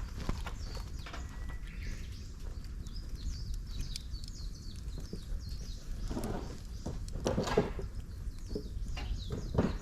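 Dry bamboo and twigs crackling and popping as they burn in a campfire stand, with louder crackling bursts about six and seven and a half seconds in.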